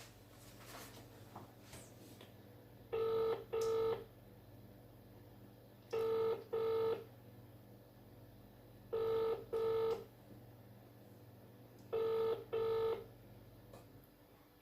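UK telephone ringing tone (ringback) heard through a phone's speaker: four double rings, one pair about every three seconds, as an outgoing call rings and waits to be answered.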